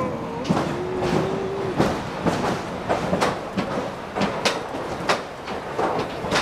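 Incline railway car rattling along its track, with irregular sharp clacks several times a second and a brief steady squeal starting about half a second in.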